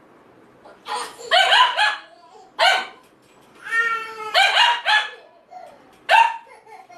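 A dog vocalising in a series of about six short, pitched yelps and whines with bending pitch, one of them longer and held a little before the middle.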